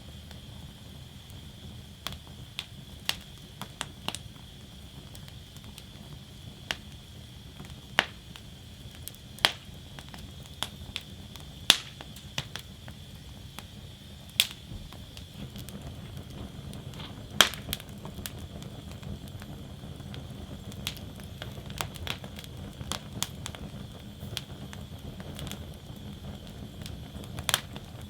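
Wood fire burning in a fire basket: sharp, irregular pops and cracks every second or two, a few of them much louder, over a steady low rumble of the flames.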